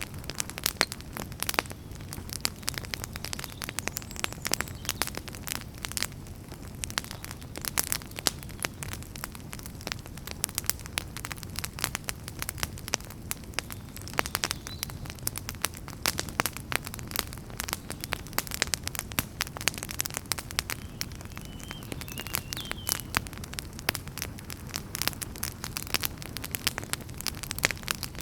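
Fire in a fireplace crackling, with frequent irregular snaps and pops over a steady low rumble of flames.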